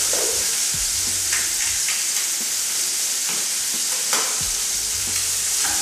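Scampi frying with garlic in hot oil in a frying pan on a gas hob, a steady sizzle. A few light clicks and knocks come through it.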